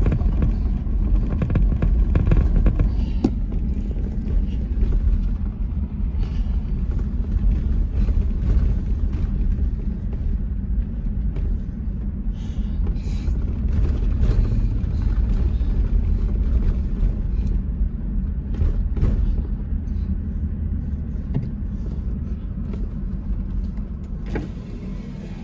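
Toyota Land Cruiser 100 series driving on a dirt and gravel trail: a steady low rumble of engine and tyres, with scattered clicks and knocks from the rough track.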